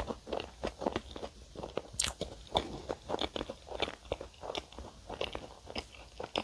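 Close-miked chewing of a strawberry-and-cream pastry: an irregular run of soft crunches and wet mouth clicks, several a second.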